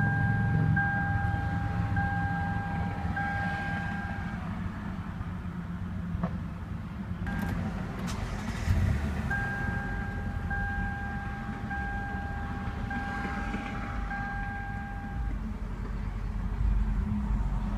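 2013 Lexus RX 350's 3.5-litre V6 idling just after a push-button start, a little louder at first and then settling into a steady idle. A repeating electronic beep from the car sounds in two runs of about five pulses, in the first few seconds and again past the middle.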